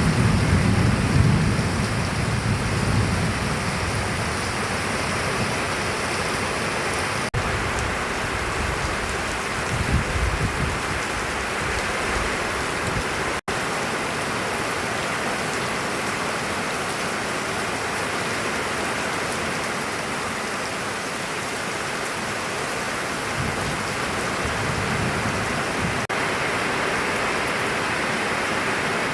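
Steady heavy rain falling, with low rumbles of thunder near the start, about ten seconds in, and again towards the end.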